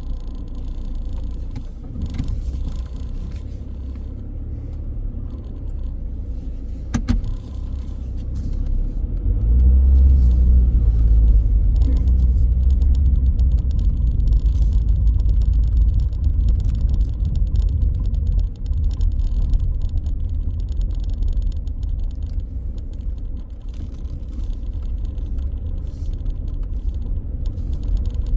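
Car driving: a steady low engine and road rumble that grows louder about nine seconds in, with a sharp click at about seven seconds.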